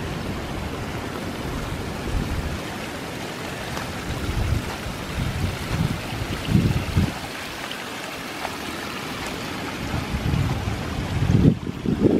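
Rain-swollen runoff stream rushing down a wooded hillside after heavy rain, a steady rush of water, with irregular low bumps now and then over it.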